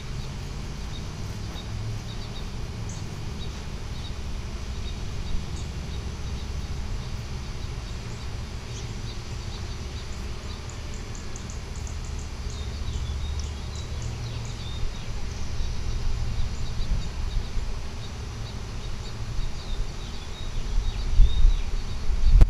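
Outdoor ambience: a steady low rumble with birds chirping, mostly in the middle and toward the end, and a few loud low bumps near the end.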